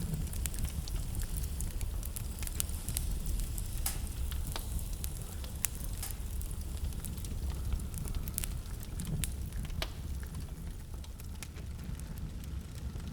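Wood fire crackling in a fireplace, with irregular sharp pops and snaps, over a steady low rumble of blizzard wind.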